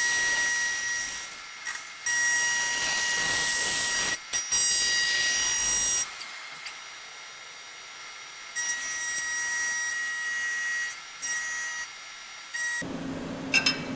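Haas TM1 milling machine cutting the edge of a metal plate: a high steady whine over a hiss, coming in spells of a second or two that break off and resume. It is louder for the first six seconds and quieter after that.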